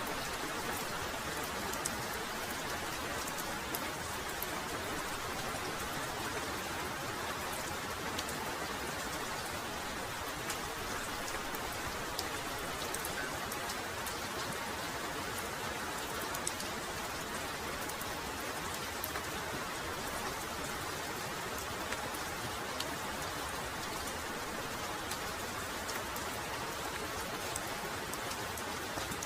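Heavy rain falling steadily, a dense even hiss with scattered sharp ticks of individual drops striking.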